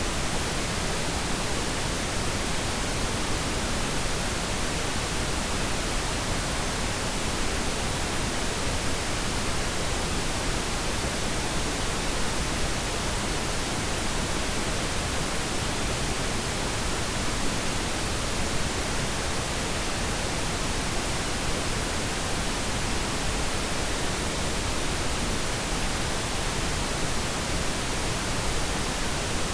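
Steady synthetic pink noise: an even, unchanging hiss spread across the whole range.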